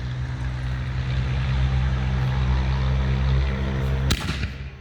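A steady low hum of an idling engine, cut off about four seconds in by a single sharp bang: a fireworks canister shell's lift charge launching it from the mortar tube.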